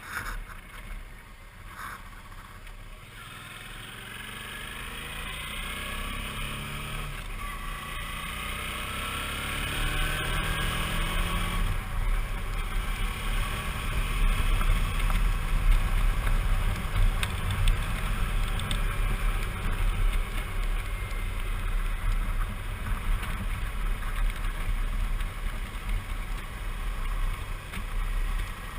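Suzuki V-Strom 650's V-twin engine pulling away and accelerating, its pitch climbing and dropping back as it shifts up through the gears. It then settles into steady cruising, with wind rushing over the microphone and getting louder.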